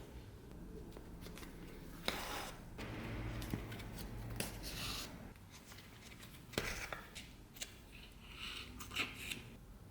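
Hand work on small objects: a few sharp clicks and short scraping or snipping strokes, spaced a couple of seconds apart.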